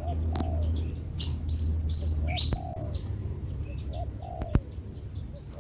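A dove cooing, a low two-note call repeated about every two seconds, with small birds chirping in short high notes over it. A single sharp click sounds a little after halfway.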